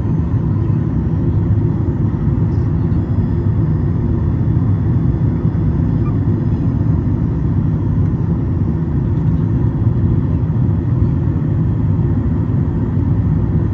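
Steady in-flight cabin noise of a Boeing 737 MAX 8: a constant low rumble of its CFM LEAP-1B engines and airflow, heard from inside the passenger cabin.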